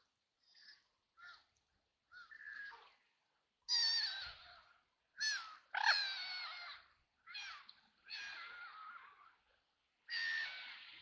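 Ducks quacking: a run of separate harsh calls, short and faint at first, then louder and longer from a few seconds in. A steady hiss of water or rain sets in near the end.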